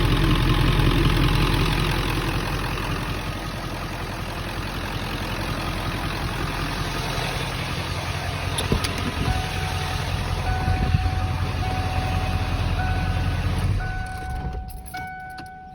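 1997 Ford F-250's 7.3 L Power Stroke V8 turbo-diesel idling, louder for the first couple of seconds and then settling, before it shuts off about two seconds from the end. A repeating electronic warning chime sounds over the last several seconds.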